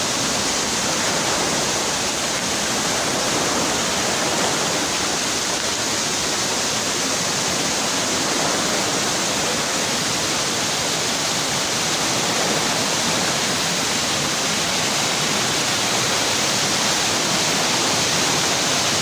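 Waterfall: a steady, unbroken rush of falling water, with a bright hiss.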